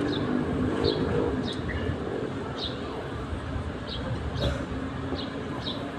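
A small bird chirping repeatedly, short high downward chirps about twice a second, over a steady low rumble of outdoor background noise.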